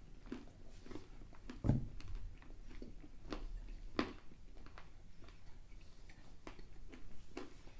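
People chewing a snack mix of almonds, dried apple pieces and yogurt-coated raisins: irregular small crunches and mouth clicks. A dull thump comes about a second and a half in, and a sharper click about four seconds in.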